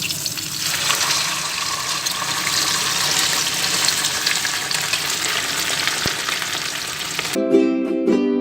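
Food frying in hot oil: a dense, steady sizzle full of small crackles, which stops about a second before the end, when ukulele music begins.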